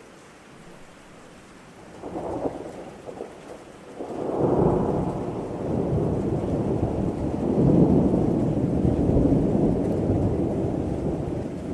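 Thunderstorm: steady rain with thunder. A crackle comes about two seconds in, then a long rolling rumble starts about four seconds in, swells and slowly eases off.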